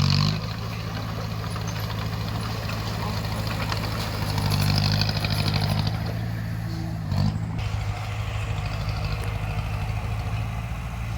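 Bulldozer's diesel engine running steadily, pulling harder and louder for a couple of seconds about four seconds in, with brief louder spells at the start and about seven seconds in.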